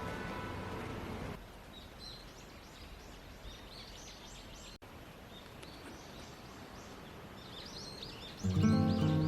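Birds chirping over quiet outdoor ambience, many short calls, after about a second of louder, even noise that cuts off abruptly. Gentle instrumental music starts about a second before the end.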